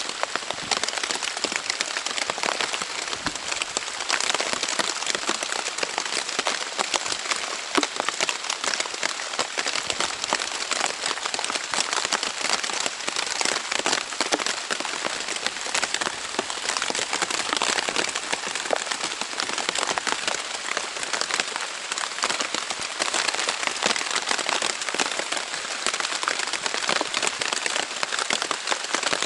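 Heavy rain falling on the Dyneema fabric of a Zpacks Plexamid tent: a dense, steady patter of countless drops.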